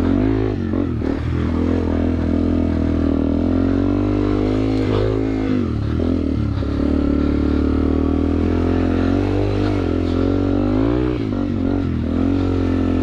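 2009 Yamaha TW200's single-cylinder four-stroke engine revving up and down under load as the dirtbike is ridden through mud. Its pitch rises and falls repeatedly, holding steadier for a few seconds in the middle.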